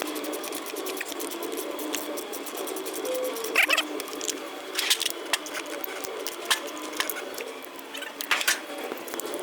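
Small clicks, taps and a few sharper metallic knocks of tools and carburetor parts being handled while a carburetor and its gaskets are fitted to an outboard engine.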